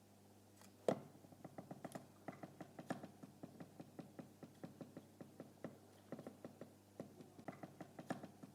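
Homemade putt-putt steam boat, a sardine-can boiler with metal piping heated by candles, putting: a faint, rapid, even run of clicks starting about a second in, as steam pulses out of the pipes at the back.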